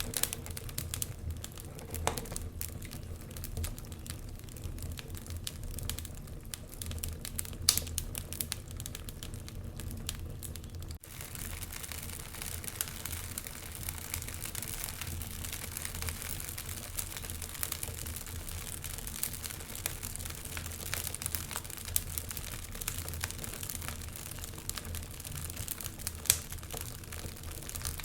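Wood fire crackling steadily, with irregular small pops and a few louder snaps. About eleven seconds in the sound drops out for an instant, and the crackle then comes back denser and hissier.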